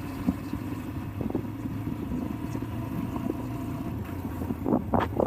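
Vehicle engine running with a steady low rumble, with a few light knocks and a brief louder noise just before the end.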